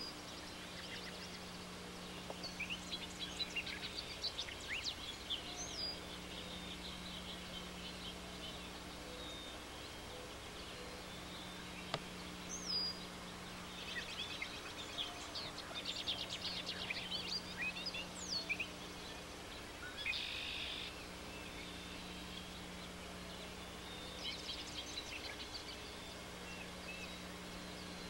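Small birds chirping and trilling in scattered bursts, over a faint low hum that comes and goes.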